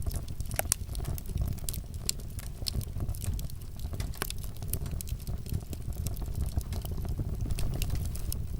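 Wood fire crackling in a fireplace: a steady low rumble of flames with irregular sharp pops and snaps scattered throughout.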